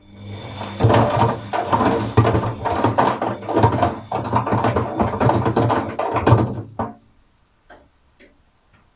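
Atlant 50U101 washing machine's drum turning for about seven seconds on a wash cycle: a steady motor hum with the load of paint rollers and brushes tumbling and knocking inside, then the drum stops.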